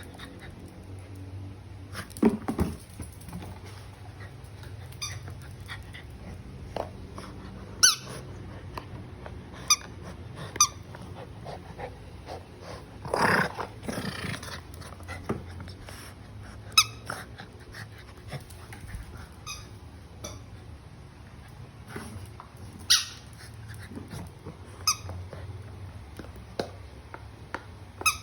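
Shih tzu biting a squeaky chew toy, setting off short squeaks at irregular intervals, with a longer squeak about thirteen seconds in.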